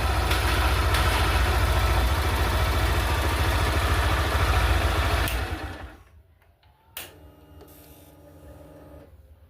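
Honda Titan 160 single-cylinder engine idling steadily, running now that the broken starter wire in the handlebar harness has been spliced. About five and a half seconds in it is switched off and dies away, followed by a single click.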